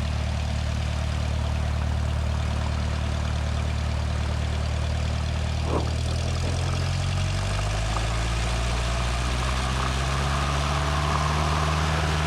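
Cessna 172 Skyhawk's piston engine and propeller running steadily, then rising in pitch from about seven seconds in as the throttle is opened for the takeoff roll. A faint click about six seconds in.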